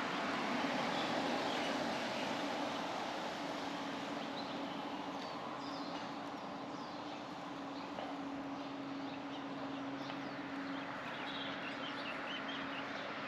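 Road noise from a moving car with a steady low hum, and birds chirping repeatedly through it.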